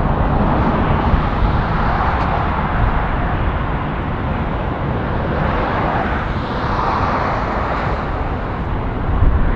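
Japan Airlines heavy jet airliner's engines at takeoff power during its departure roll from the runway: a loud, steady rush of jet noise with a deep rumble underneath, swelling and easing slightly.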